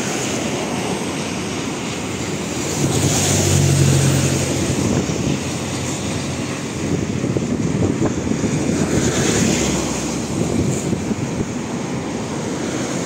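Freight train wagons rolling along the rails, giving a steady rumble of wheels on track. A low hum swells briefly about three seconds in.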